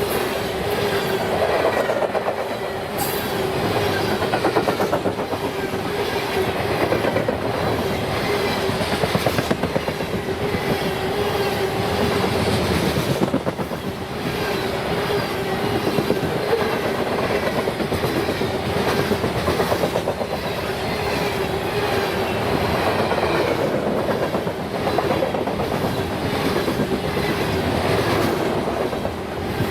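Freight train cars rolling past, their wheels clicking rapidly and steadily over the rail joints, with a steady whine running underneath.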